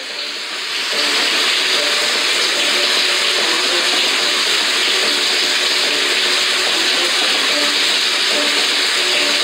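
Torrential rain pouring down, a steady dense hiss that comes in about a second in.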